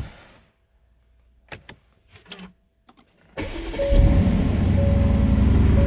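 A few faint clicks from the car's controls, then about three and a half seconds in a 2020 Aston Martin's engine starts from cold. It fires suddenly, flares up to a peak around four seconds in, and settles into a steady fast cold-start idle.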